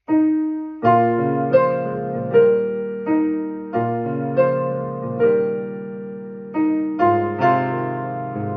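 Piano music: a slow melody of struck notes over chords, each note ringing and fading before the next, about one or two notes a second.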